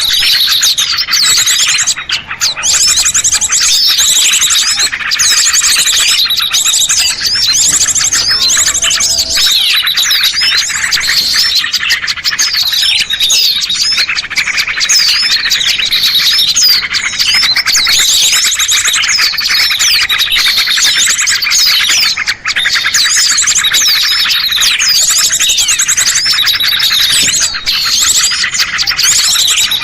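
Dense chorus of many small songbirds chirping and trilling at once without a break, high-pitched and busy: a bird-lure (pikat) recording played to draw small birds down.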